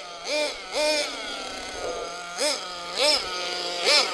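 SH .21 nitro engine of an HSP 1/8 RC monster truck idling while being warmed up, with five quick throttle blips that rev it up and let it drop straight back to idle.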